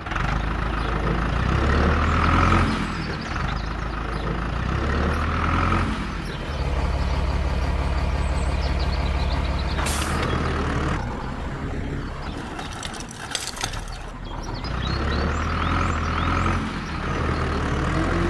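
Truck-like engine running steadily, a low rumble that swells and eases every few seconds, with a few short clicks about halfway through.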